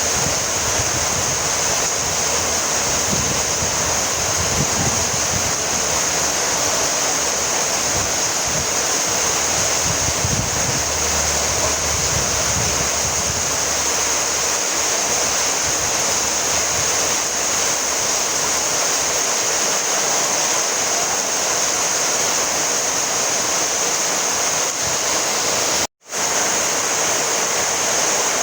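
Steady rainfall, an even, unbroken hiss with a brighter high band. The sound drops out completely for a split second near the end.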